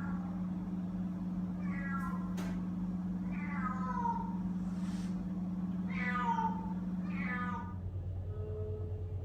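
Feral kittens meowing in distress, about five falling meows, frightened at being shut in. A couple of sharp clicks about two seconds in, and a steady low hum underneath that drops in pitch and begins to pulse near the end.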